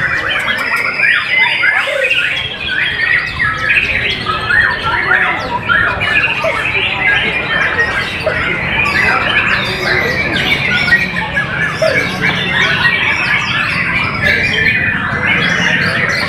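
White-rumped shama (murai batu) singing without pause: a dense, fast run of varied whistled and chattering notes.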